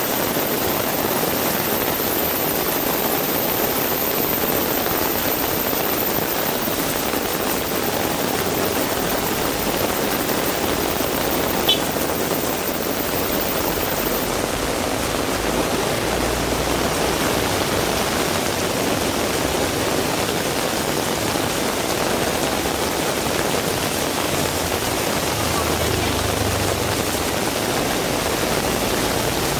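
Heavy rain pouring steadily, an even hiss of rainfall.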